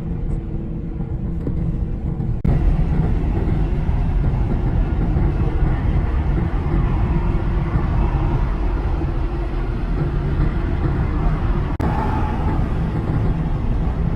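Steady rumble of wind and road noise from riding at speed, heaviest in the low end. The sound changes abruptly and gets louder about two and a half seconds in.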